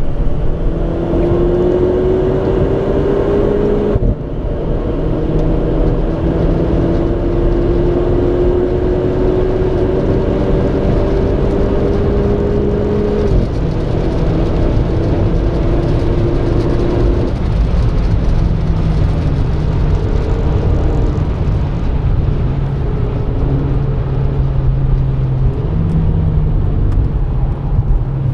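Renault Clio RS 220's turbocharged 1.6-litre four-cylinder engine accelerating hard, its pitch climbing, with upshifts about 4 and 13 seconds in. From about 17 seconds the revs fall lower and vary as the car lifts off and brakes.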